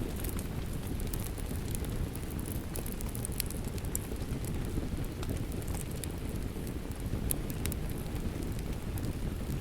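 Steady rain mixed with a crackling wood fire in a fireplace: a constant low rush with scattered sharp crackles.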